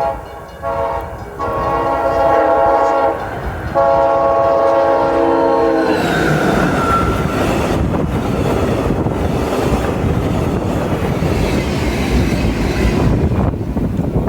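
Passenger train locomotive horn sounding in long blasts, its pitch dropping as it passes about six seconds in. Then the rumble and clickety-clack of the train running by at speed.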